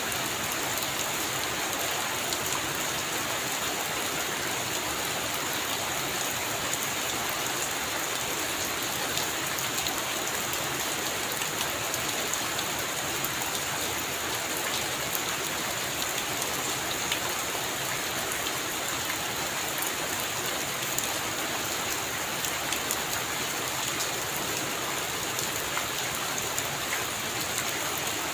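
Heavy rain falling steadily, a constant hiss with many small drop ticks.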